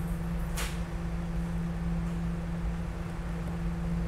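SEPTA regional rail car standing at a station platform, its onboard equipment giving a steady hum over a low rumble, with a short hiss about half a second in.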